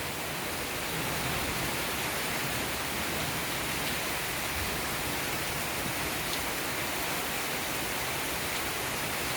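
Heavy rain falling steadily in a continuous, even hiss.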